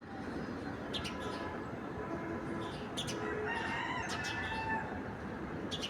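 Birds calling over a steady background hiss: short high chirps every second or two, and a longer wavering call from about three and a half seconds in.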